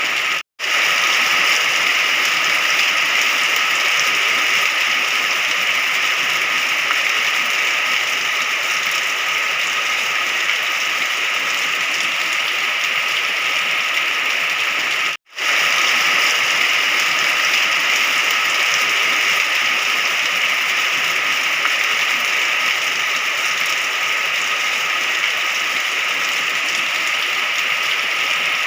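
Steady rain, an even hiss of falling water, that cuts out to silence for a split second twice: about half a second in and again about halfway through.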